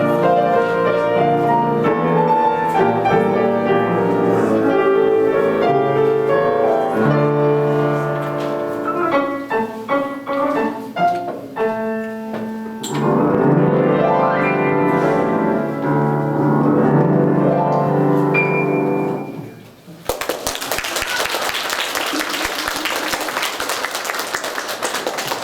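Piano playing a classical piece, which ends about three-quarters of the way through; an audience then applauds.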